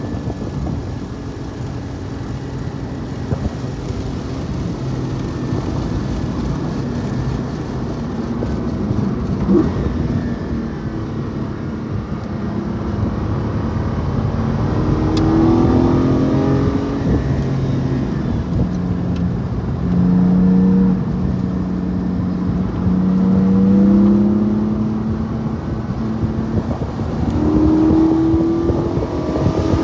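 Porsche 718 Cayman GT4's 4.0-litre flat-six heard from inside the car at track speed over road and tyre noise. In the second half the engine note climbs in pitch several times as the car accelerates out of corners.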